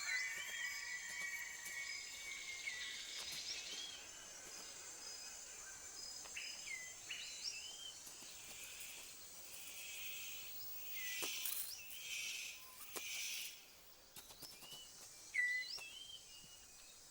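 Tropical rainforest ambience: a steady high insect drone with short chirping bird calls repeated throughout, and a few brief rustling bursts about two-thirds of the way through.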